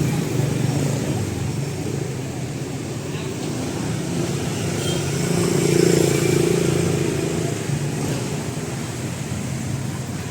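Motorbike engines running on a busy street, with one getting louder as it passes close about six seconds in, then fading.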